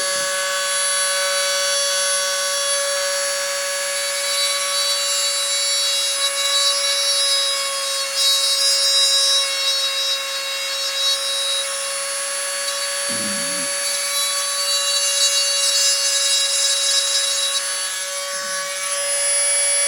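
Small high-speed rotary tool running with a steady high whine, grinding and sanding hardened JB steel epoxy putty on a slot car body's fender.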